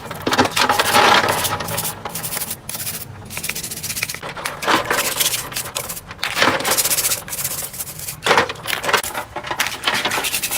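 Small hard objects rubbing and clattering together: a dense scraping rattle of many fine clicks, swelling louder a few times.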